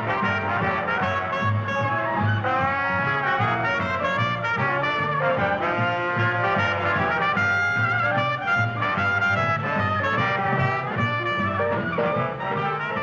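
Jazz band playing, with trumpets and trombones out in front over a steady pulsing bass line.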